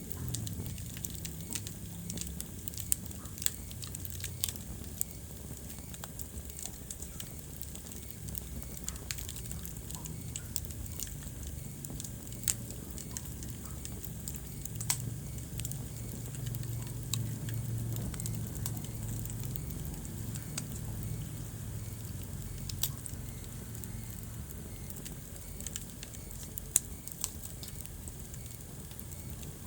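Wood fire burning in a fireplace, crackling with irregular sharp pops over a low steady rumble, a few pops louder than the rest.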